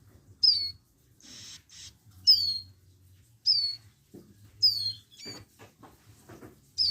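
Young ciblek gunung (prinias) calling: five loud, sharp chirps that slide downward, spaced a second or so apart. A short rustle sounds between the first two chirps, and soft clicks come in the second half.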